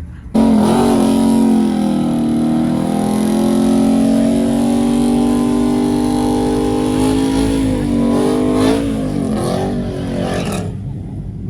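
Car engine revved hard and held at high, steady revs for several seconds, then wavering and falling off near the end.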